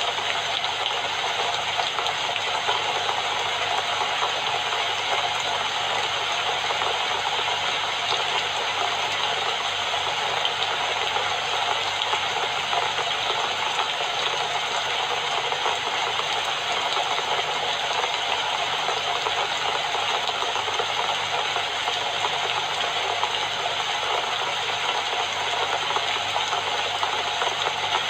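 Steady rain falling, an even hiss of countless drops with no breaks or changes in strength.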